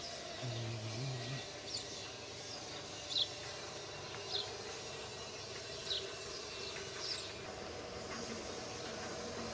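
A bird repeating a short, high, downward chirp about every one and a half seconds, six times, over a steady background hum.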